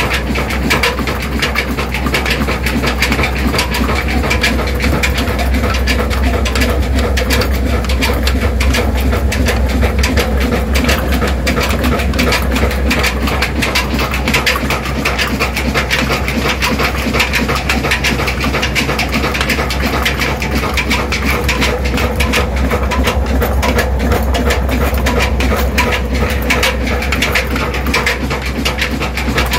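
Hundred-year-old engine driving an atta chakki stone flour mill, running steadily with a fast, continuous clatter and a deep hum.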